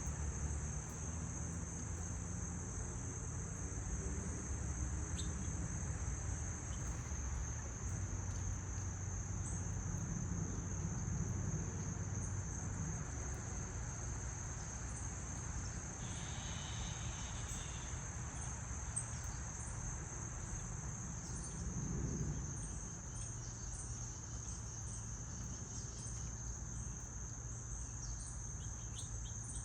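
Steady high-pitched insect chorus over a low rumble, with a few short bird chirps near the end.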